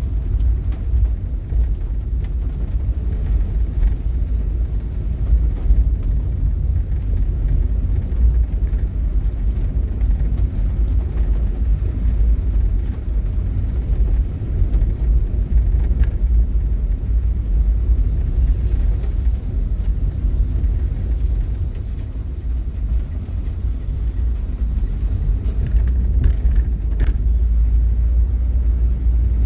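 A loud, steady low rumble, with a few faint clicks about halfway through and near the end.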